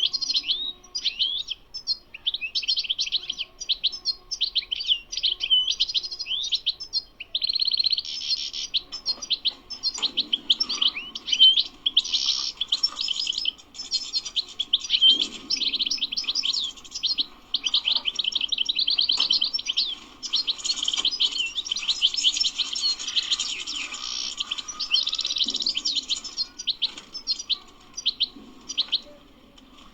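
European goldfinch singing: a long, fast twittering song of rapid high chirps and trills with brief pauses, becoming denser and more continuous from about seven seconds in.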